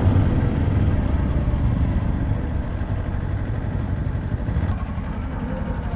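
Rusi KR200 dirt bike's engine running at low speed, with a steady low rumble that eases down gradually.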